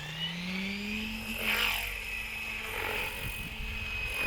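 Align 700 RC helicopter spooling up: the rotor and motor whine rise in pitch for about the first second, then hold steady at the higher rotor speed.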